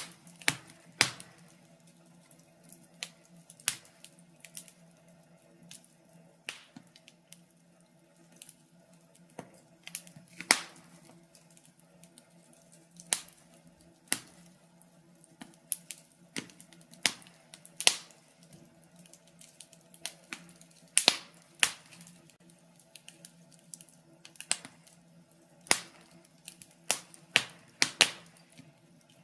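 Wood fire crackling in a fireplace: irregular sharp pops and snaps, sometimes two or three close together, over a faint steady hum.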